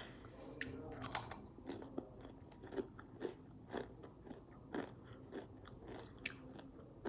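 Someone chewing salted potato chips: a run of small crisp crunches, about two a second, the loudest a little over a second in.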